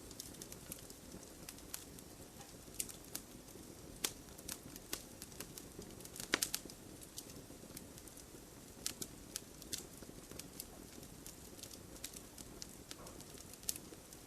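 Wood fire in a fireplace crackling, with irregular sharp snaps and pops over a low, steady rush of flame, and a quick cluster of louder pops about halfway through.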